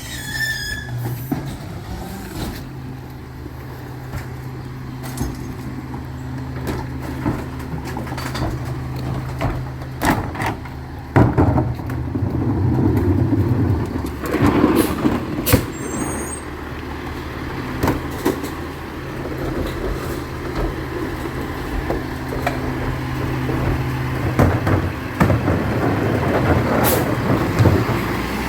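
Recycling truck engine running steadily, with a few sharp bangs about a third and halfway through.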